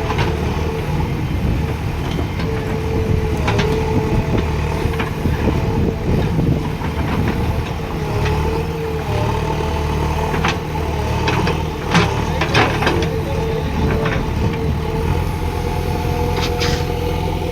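Heavy diesel machinery running steadily, with a constant whine that wavers slightly in pitch. A few sharp knocks cut through it, the loudest about twelve seconds in.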